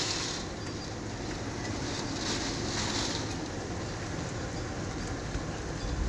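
Severe thunderstorm wind and heavy rain: a steady loud rushing noise with a ragged deep rumble underneath and a hiss that swells twice around two to three seconds in.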